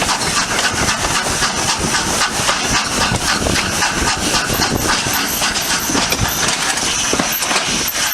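Steam locomotive working, its exhaust giving a steady run of sharp chuffs, about three or four a second, over a hiss of steam.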